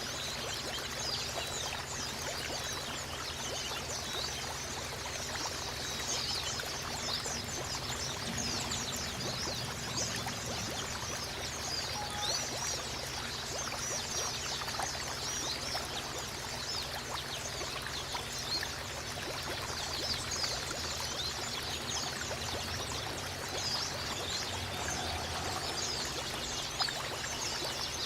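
Steady running water, like a trickling stream, with many small birds chirping busily and rapidly over it.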